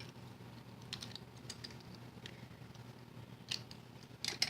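Scattered light clicks and taps from handling paper pieces and small craft tools on a work table, with a closer cluster of louder clicks near the end.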